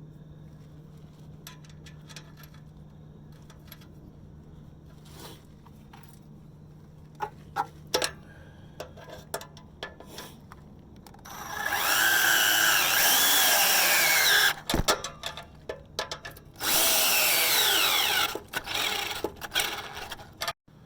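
Power drill spinning a nut down onto an exhaust pipe clamp in two runs, the first about three seconds long and the second about two, its pitch rising and falling as the load changes. A few scattered clicks and taps of hand tools come before it.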